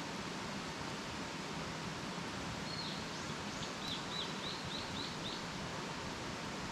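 A bird calls a quick run of about six short, high notes about three seconds in, over a steady hiss of outdoor background noise.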